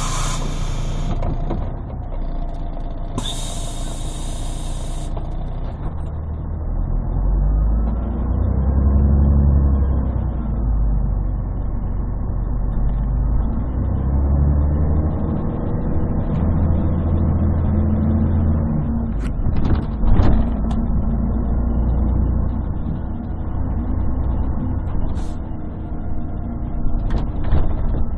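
Inside a 1998 Scania CN113CLL city bus: two bursts of compressed-air hissing in the first few seconds, then the Scania DSC11 diesel with its Voith automatic gearbox pulling and running under load, its low drone rising and falling in waves through the gear changes. A sharp knock comes about 20 seconds in. The sound is bassy and muffled from a partly covered phone microphone.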